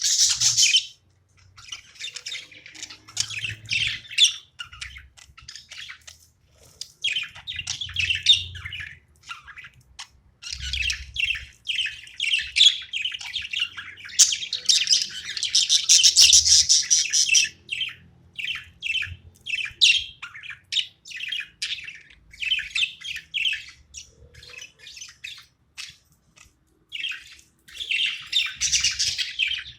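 Pet budgerigars chattering and chirping, rapid warbling calls coming in bursts with short pauses between them.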